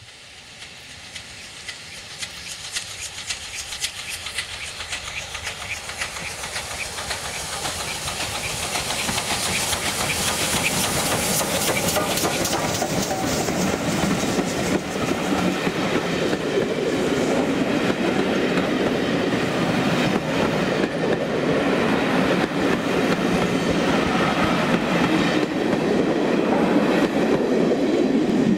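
Steam-hauled passenger train passing, its carriage wheels clicking over the rail joints above a steady rumble that grows louder throughout.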